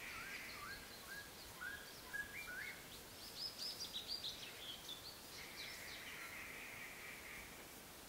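Wild birds calling: a series of short, hooked whistled notes for the first couple of seconds, then a quick run of higher chirps in the middle, over a faint background hiss.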